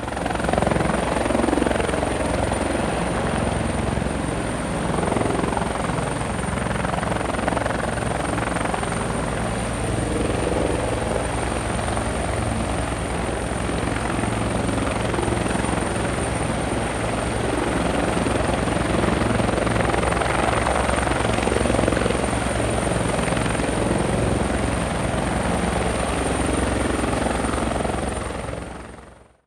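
Spinning rotor whirring steadily like a helicopter, with a constant thin high whine above it; it fades out near the end.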